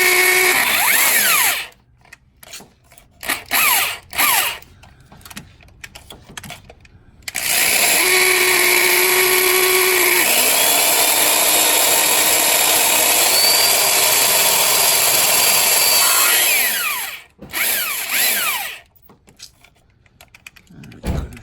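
Power drill boring holes into the car's sheet metal, run in short bursts and then one long run of about nine seconds, its whine stepping up in pitch partway through. It is working with a dull bit that keeps catching and sticking in the metal.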